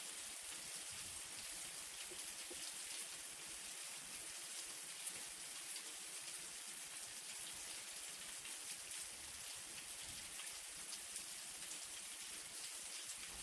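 Light rain falling steadily, a soft hiss with many small drop ticks.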